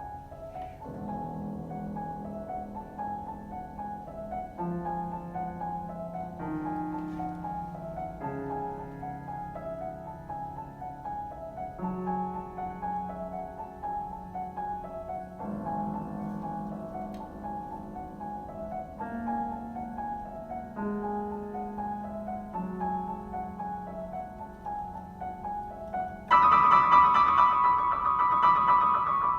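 Piano playing a piece with a repeated high figure over a changing lower line. About three seconds before the end it turns suddenly much louder and brighter.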